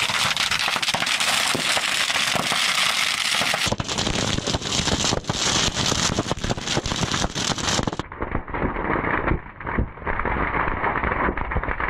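Firecrackers and fireworks going off in rapid, continuous crackling and popping inside a burning pile of dry Christmas trees.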